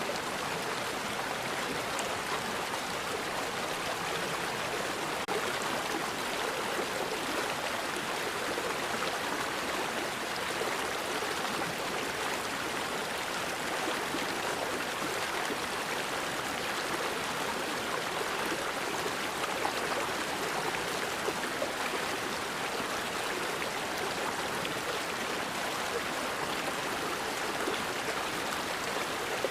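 River water flowing steadily over rocks, a continuous even rushing and splashing.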